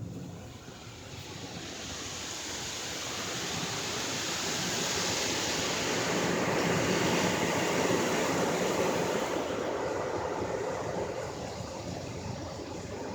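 Rinse water spraying onto a car from a Ryko SoftGloss XS rollover car wash, a steady hissing rush that grows louder to a peak about halfway through and then eases off.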